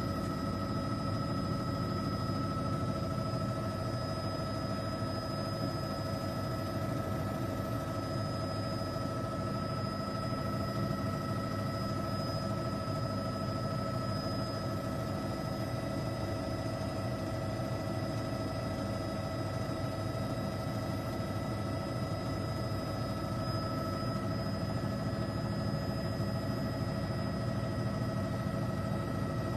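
Steady helicopter cabin noise: a constant engine and rotor drone with several fixed high-pitched whines over it, heard from inside the helicopter.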